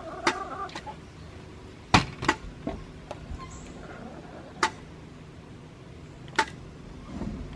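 A hen's short call near the start, then a scattering of sharp clicks and knocks, about one every second or two, while eggs are gathered from the chicken coop's nest boxes.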